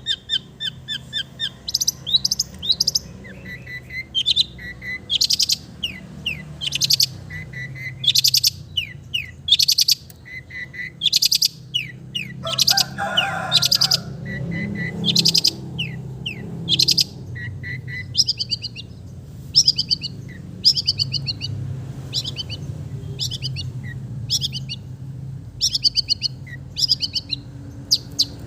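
Long-tailed shrike (cendet) singing a loud, fast, varied song of short sharp notes and rattling trills, interspersed with mimicked phrases of other birds such as the sooty-headed bulbul, over a steady low hum.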